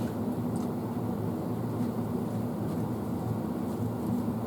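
Steady low hum of background machinery, like a fan or kitchen appliance running, with no changes in pitch or level.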